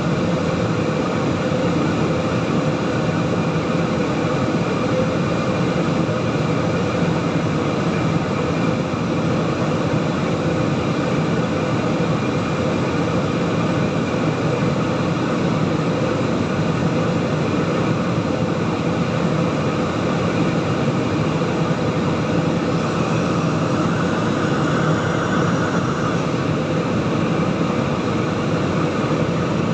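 Airliner cabin noise: the steady rumble and rush of the jet engines and airflow, with several steady tones running through it.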